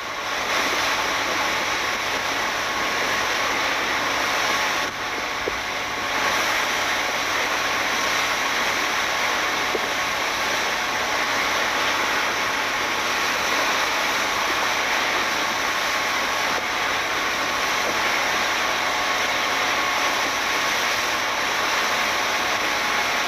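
Fishing speedboat underway: its outboard engine runs steadily under a rushing wash of wind and water, with a short dip about five seconds in.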